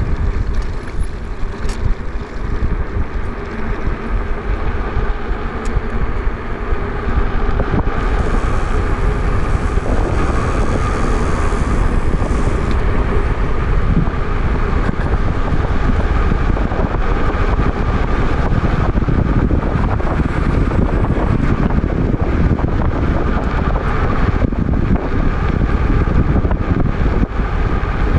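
Wind rushing and buffeting over the microphone of a moving e-bike, a loud steady rumble with gusts. A brighter hiss joins it for a few seconds from about eight seconds in.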